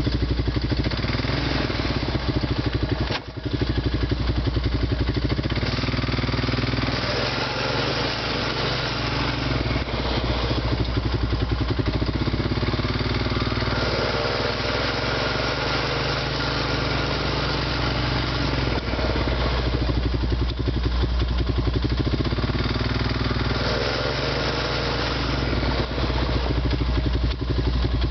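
Honda Rancher ATV's single-cylinder engine running, its speed rising and falling several times, with a brief drop about three seconds in. It carries the grinding sound the owner is showing.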